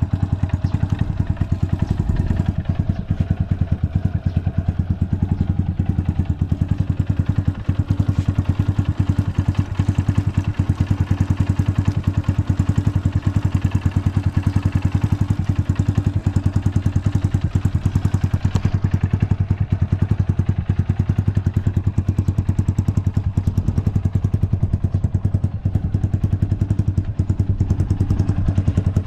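Honda FTR223's air-cooled single-cylinder engine idling steadily through a 4-inch Supertrapp full exhaust, with an even, rapid beat of exhaust pulses and no abnormal noise.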